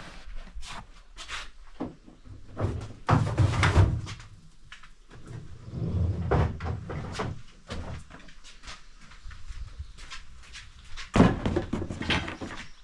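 Knocks, thumps and clatter of gear being handled and set down, with louder bumps about three seconds in, about six seconds in and near the end.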